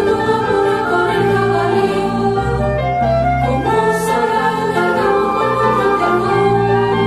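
Choral music: a choir singing sustained notes over a steady instrumental accompaniment.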